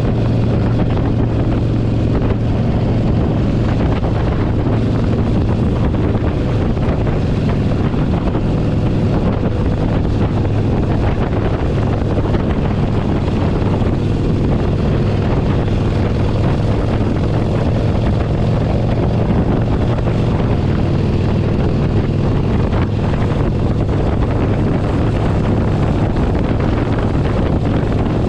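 Harley-Davidson Forty-Eight Sportster 1200's air-cooled V-twin engine running steadily at cruise, with wind noise on the microphone.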